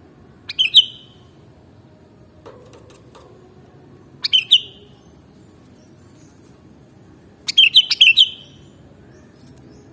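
Sooty-headed bulbul (kutilang) calling: three short bursts of quick, high chirping notes a few seconds apart, the last burst longer with more notes.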